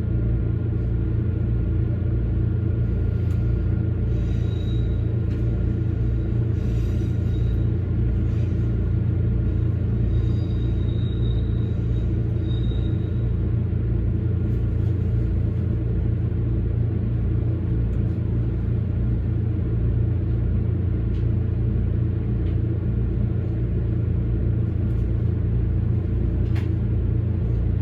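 Toyama Chiho Railway electric train running steadily along the line, a constant low rumble of the car and its wheels on the rails. Faint high-pitched tones come and go in the first half.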